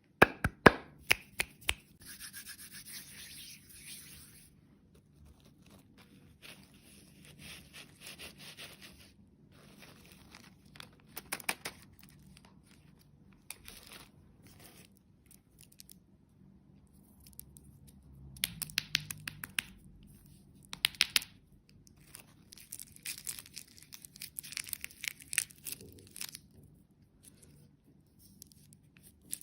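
Close-up handling noises: bursts of rubbing and rustling a second or two long, with gaps between them and sharp clicks and taps, the loudest clicks near the start.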